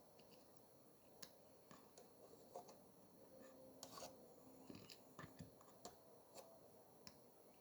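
Near silence with faint, scattered clicks and light taps of small repair tools being handled.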